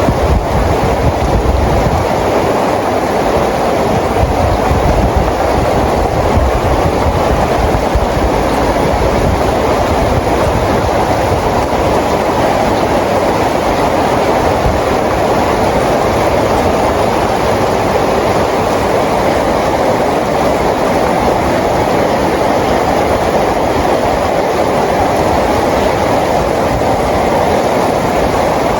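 Rain falling steadily, an even rushing noise with a low rumble underneath.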